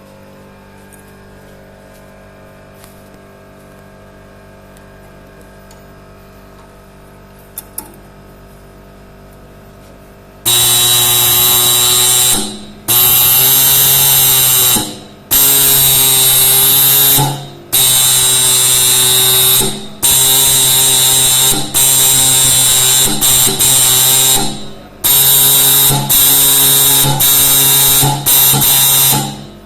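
Dot peen marking machine stamping a motorcycle exhaust silencer: its stylus hammers the metal with a loud, rapid buzz, in runs of about two seconds with short pauses between. Before the buzzing starts, about ten seconds in, there is only a low hum.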